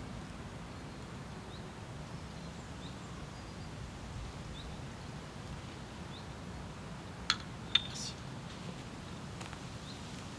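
Quiet outdoor ambience: a steady low background with a few faint bird chirps, and two sharp clicks about seven seconds in.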